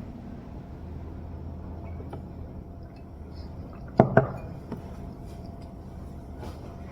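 Two sharp clinks of glass or dishware about four seconds in, a fifth of a second apart, with a few fainter ticks of tableware over a steady low room hum.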